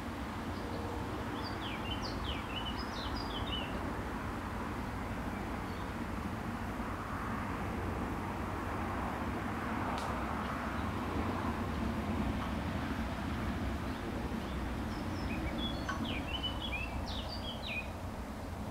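A small bird singing short, quick chirping phrases twice, about a second in and again near the end, over a steady low rushing background noise, with a single sharp click about halfway through.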